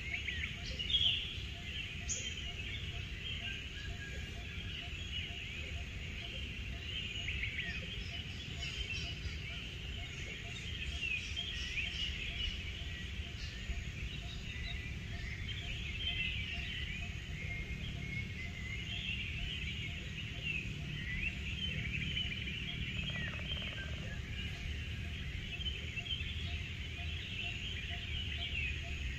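Many birds chirping and singing together, with a steady low rumble underneath. One chirp stands out louder about a second in.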